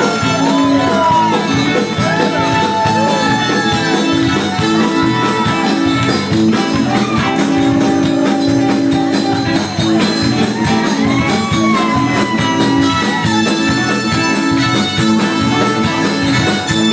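Live band music with guitar and a sliding melody line, played steadily at full volume.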